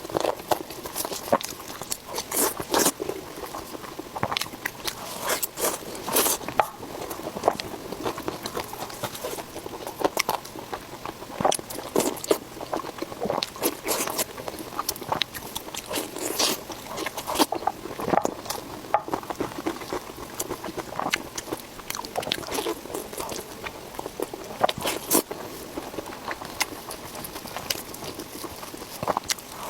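A person chewing and biting into pork belly: a steady run of irregular crunches and sharp mouth clicks.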